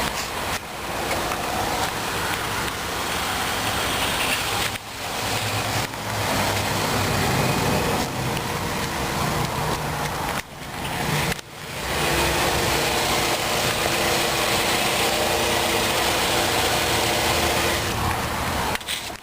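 Steady outdoor noise of a car idling, mostly hiss and rumble, broken by a few brief dips about five, ten and eleven seconds in.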